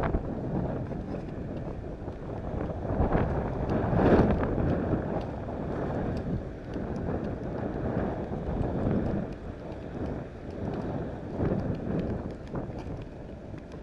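Wind buffeting the microphone: a low rumbling noise that swells and fades in gusts, strongest about four seconds in.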